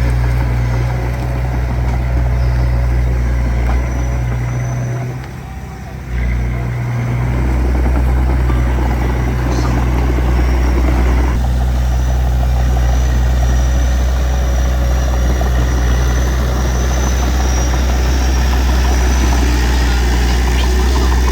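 Diesel engine of heavy earthmoving equipment running steadily, with a brief dip in level about five seconds in before it picks back up.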